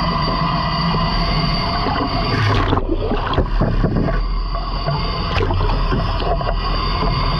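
Fishing boat's engine running steadily, with a few knocks and clanks about three seconds in.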